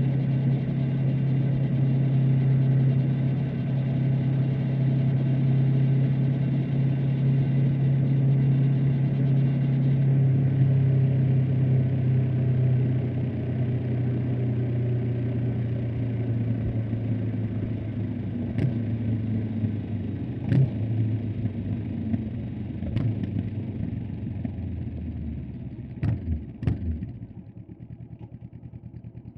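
Honda CB500X's parallel-twin engine running steadily under way, then slowing with its note gradually falling, and several sharp clicks in the second half. Near the end it drops to a quiet idle.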